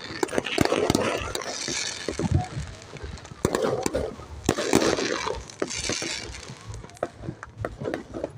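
Aerial fireworks going off: many sharp, irregular bangs and crackles from bursting shells, loudest in two spells in the first half.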